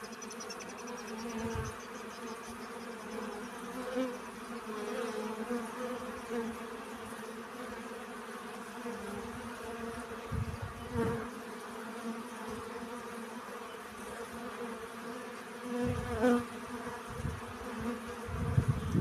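Bees buzzing steadily while foraging for pollen, the wingbeat hum wavering a little in pitch. There are a few brief low thumps along the way.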